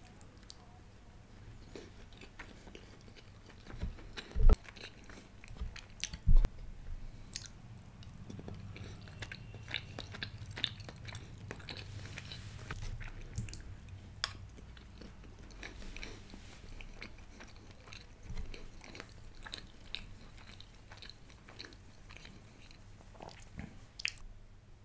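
Close-miked chewing and mouth sounds of a person eating a chocolate brownie, with many small wet clicks. Two loud, low thumps come about four and a half and six and a half seconds in.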